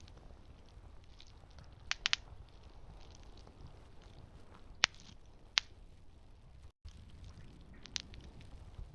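Campfire crackling: a low steady rush of burning with scattered sharp pops from the wood, a quick cluster of three about two seconds in and single pops later.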